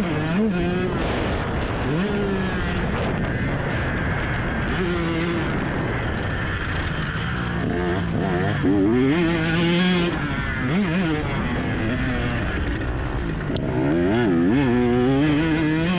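Motocross dirt bike engine running hard on a track, its pitch repeatedly climbing and dropping as the throttle is opened and chopped and the rider shifts through the gears.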